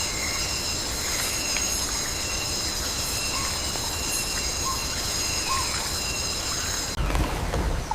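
Rainforest ambience: a steady insect chorus buzzing in several high, unchanging tones over a constant hiss, with a few short chirps in the middle. About seven seconds in the sound cuts to a lower, uneven rumble.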